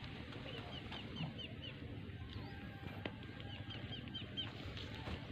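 A songbird calling: phrases of four or five short, quick chirps, repeated about every three seconds, over a steady low outdoor rumble.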